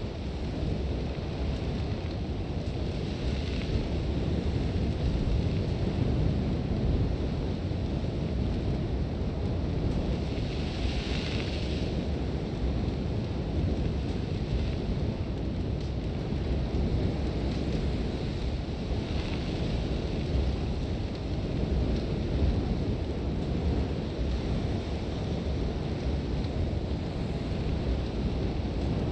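Sandstorm wind blowing steadily with a deep rumble, with brief hissing swells of blown sand about three seconds in, again near eleven seconds and near nineteen seconds.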